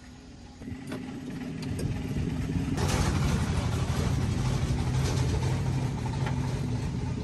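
Truck engine running steadily with a low hum. It grows louder about three seconds in and stops suddenly at the end.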